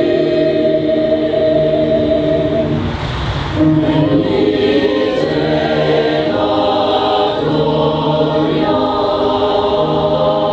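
A mixed choir singing a Christmas song with held chords that change every few seconds, with a short break about three seconds in before the next phrase begins.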